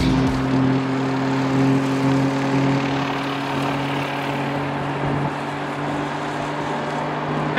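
1JZ-GTE inline-six in a MK3 Toyota Supra cruising at a steady speed, heard inside the cabin: an even low engine drone under road and tyre noise.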